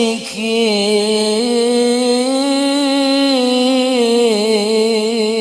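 A single voice reciting the Quran in melodic tilawah style, drawing out one long ornamented note with a slow wavering vibrato. The pitch steps up briefly about a second and a half in and settles lower near the end.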